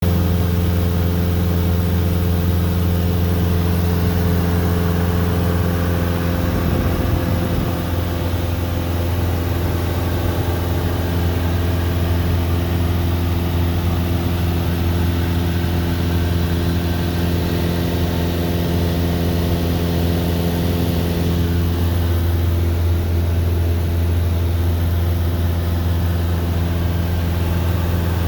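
Cessna 172 Skyhawk's piston engine and propeller droning steadily in flight, with a slight change in tone about 22 seconds in.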